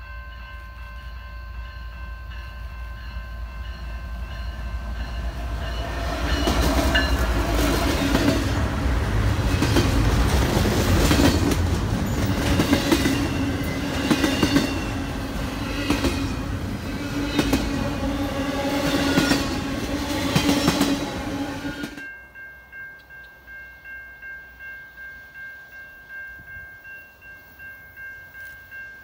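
A train passing close by, its wheels clicking regularly over the rail joints, loudest in the middle and cutting off abruptly about 22 seconds in. After the cut, a railroad crossing bell rings steadily, pulsing about twice a second.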